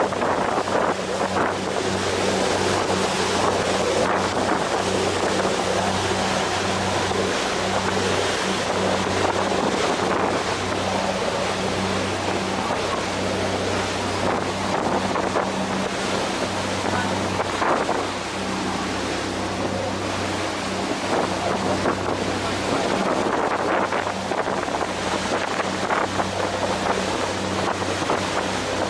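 Ferry under way: its engine drones steadily as a constant low hum, under the rush of water and wind buffeting the microphone.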